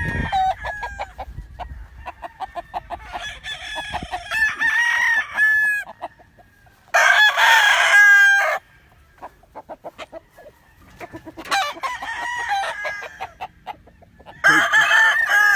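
Gamefowl roosters crowing in turn, about four crows, the loudest about seven seconds in, with short clucking between them.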